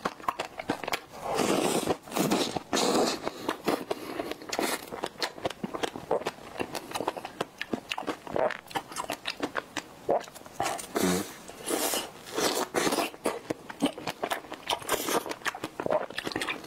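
Close-miked eating of a strawberry cream puff: bites into its crisp crumble crust, chewing, and wet mouth clicks and smacks, many short sounds one after another, with a few longer crunchy stretches.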